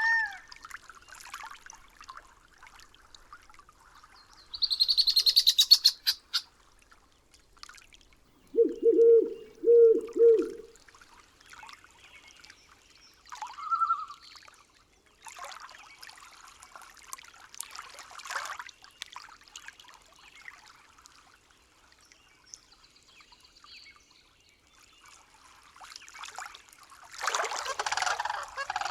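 Night-forest soundscape of scattered wild bird calls: a fast, high trill, then three low hooting notes, a short single call and some noisy rustling bursts. Near the end a loud, harsh calling starts.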